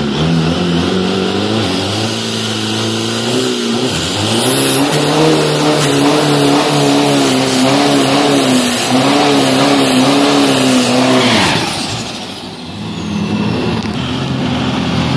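Race-prepared Isuzu D-Max All-New pickup on a quarter-mile drag run, its engine at full throttle, the pitch climbing and dropping back with each gear change under a high whistle. About eleven seconds in the throttle closes and the note falls away to a quieter running engine.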